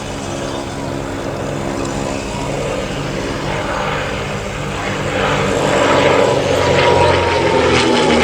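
Piston-engined propeller aircraft flying past, its engine growing louder about five seconds in and its pitch dropping near the end as it passes.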